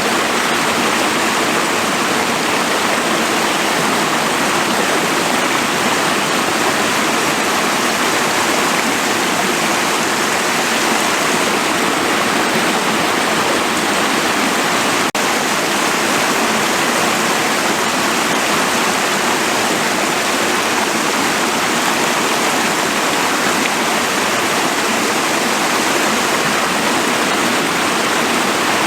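A forest stream's water rushing steadily, an even hiss with no birdsong standing out. There is a brief break about halfway through.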